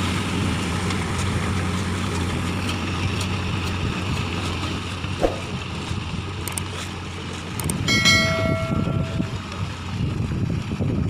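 Mahindra Arjun Ultra-1 555 DI tractor's diesel engine running at a steady speed, with a single knock about halfway through. About eight seconds in, a horn sounds one steady note for about a second and a half.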